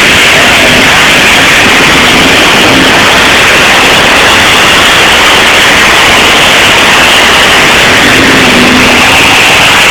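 A pulling tractor's engine held at full throttle as it drags the weight sled, loud enough to overload the phone's microphone into a steady, harsh, distorted noise.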